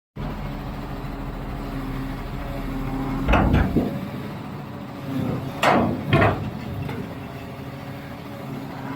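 Heavy engine running steadily, with loud metal clanks, a pair about three seconds in and a cluster around six seconds.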